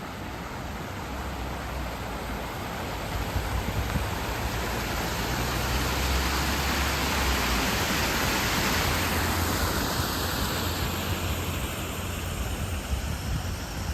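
A vehicle passing on a road, its tyre and engine noise swelling to a peak about seven to eight seconds in and then fading, over a steady rushing background.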